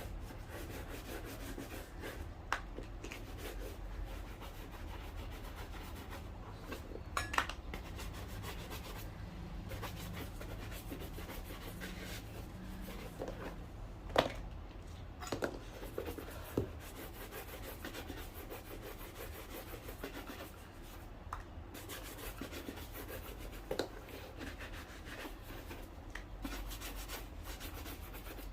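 Steady hand rubbing on a shoe, with a few sharp light clicks scattered through.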